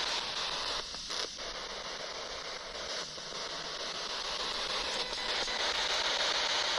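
Spirit box (a radio scanner sweeping through stations) hissing with steady white-noise static, cutting out briefly a couple of times about a second in as it jumps between channels.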